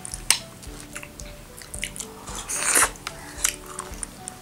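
Close-miked eating: wet chewing and squishing of finger-millet dhido eaten by hand, with a few sharp clicks and a longer wet burst a little after two and a half seconds. Soft background music with a slow, simple melody plays underneath.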